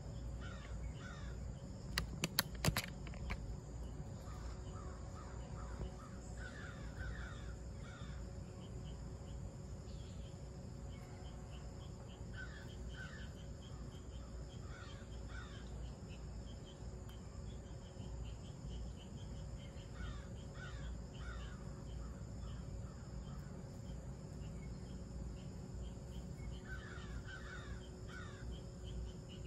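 Outdoor bird calls: short bursts of several quick notes recurring every few seconds over a steady low rumble, with a few sharp clicks about two seconds in.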